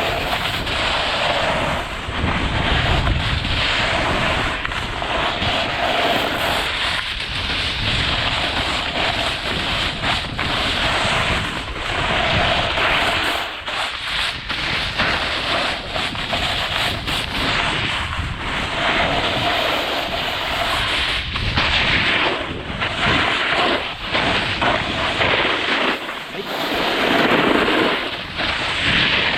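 Edges scraping and hissing over the snow of a steep ski run in repeated turns, each turn swelling and fading every second or two. Wind buffets the microphone throughout.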